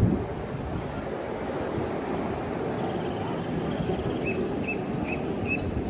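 Ride-on miniature railway train running, a steady rumble of wheels on the track, with four short high chirps in the second half.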